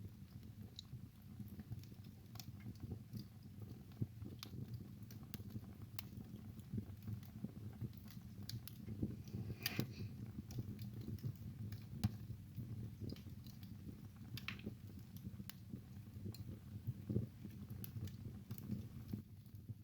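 Wood fire burning in a fireplace: irregular sharp crackles and pops, a few louder than the rest, over a low steady rumble of the flames.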